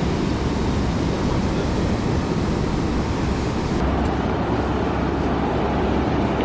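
Wind buffeting the microphone over the wash of surf on a beach: a steady, rumbling noise.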